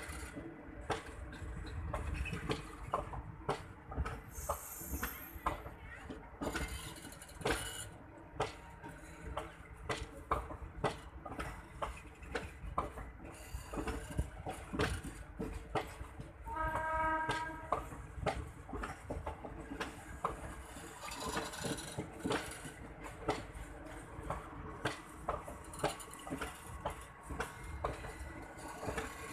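Express train passenger coaches rolling past, their wheels clicking over rail joints in a fast, uneven run of clicks over a low rumble. About two thirds of the way through, a horn sounds once for about a second.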